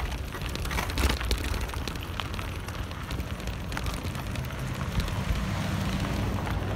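Bicycle ridden over a loose, dry dirt trail: a steady crackle of tyres on grit, with many small rattles and knocks from the bike and a low rumble underneath.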